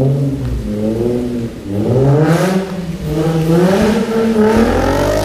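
Infiniti G35's V6 engine revving up and down repeatedly under load while doing donuts, with tyre noise swelling about two seconds in.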